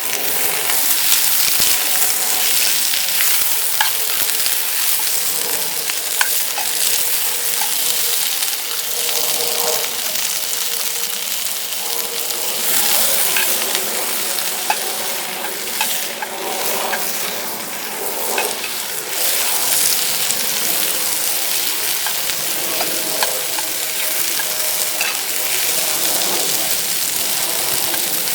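Food sizzling as it fries in a pan, with a steady hiss and scattered clicks and scrapes of a utensil stirring it.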